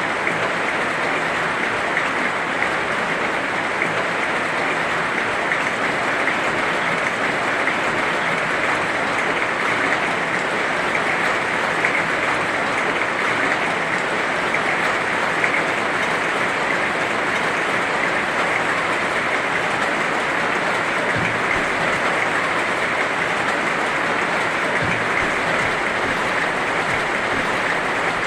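Heavy rain falling steadily, a dense even hiss of countless drops with faint crackle and no let-up.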